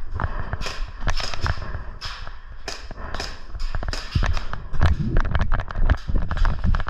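Airsoft guns firing: sharp single shots spaced through the first few seconds, then quick rapid-fire bursts from about five seconds in, over low thuds of movement.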